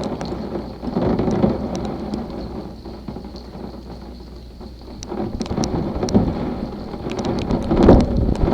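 Rain falling during a thunderstorm, with sharp drop ticks close by and rolls of thunder that swell about a second in, again around five seconds, and loudest near the end.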